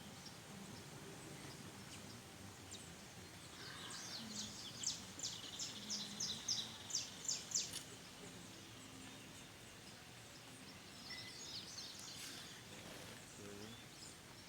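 A bird calling in a run of about a dozen short, sharp, high notes at about three a second, over faint steady outdoor background noise.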